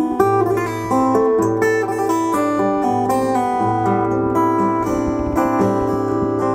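Acoustic guitar playing an instrumental passage of a song: quick plucked notes over held bass notes, with no singing.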